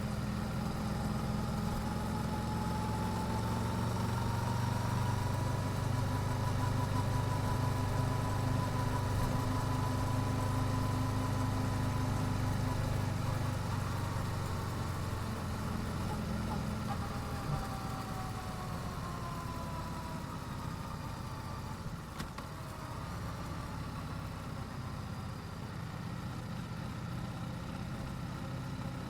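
Yamaha YZF-R7's parallel-twin engine through its stock exhaust, running at fairly low, even revs. Its pitch climbs a little over the first few seconds, holds, then drops off past the middle as the throttle eases.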